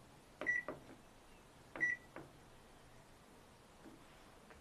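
Washing machine control-panel buttons pressed twice, each press giving a short high beep between two clicks, as the spin-only cycle is selected and set.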